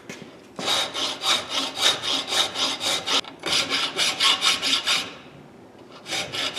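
Hand file rasping back and forth across steel locking pliers clamped in a vise, a quick steady run of about four strokes a second. It stops for about a second near the end, then starts again.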